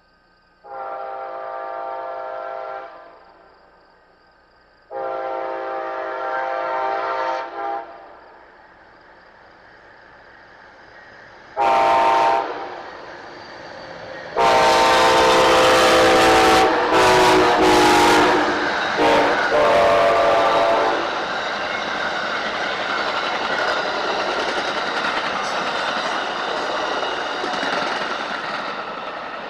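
Locomotive air horn sounding the grade-crossing signal: two long blasts, a short one, then a final long blast held about six seconds with brief breaks. The train then rolls through the crossing with a steady rumble and wheel clatter that starts to fade near the end.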